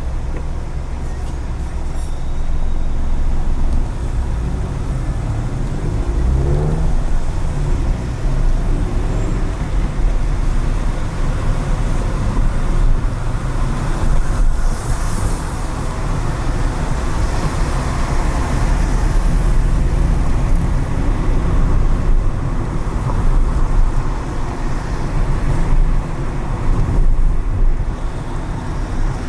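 Car driving through city traffic on wet streets: steady engine and road rumble, with the engine pitch rising about six seconds in as it speeds up, and a hiss swelling about halfway through.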